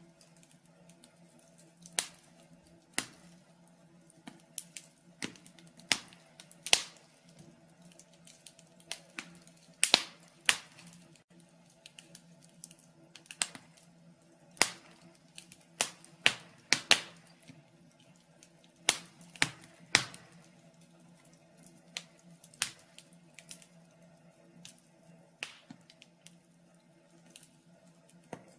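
Fire in a fireplace crackling, with sharp pops at irregular intervals, roughly one or two a second, over a faint steady hum.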